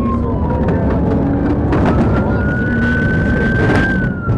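Police siren in a slow wail: a single tone falling, then rising for about two seconds and starting to fall again near the end, over loud engine and road noise of a car at speed.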